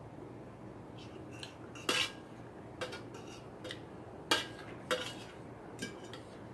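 Cutlery clinking against a noodle bowl while eating: about six short, sharp clicks at uneven intervals, the loudest about two seconds in and again just after four seconds.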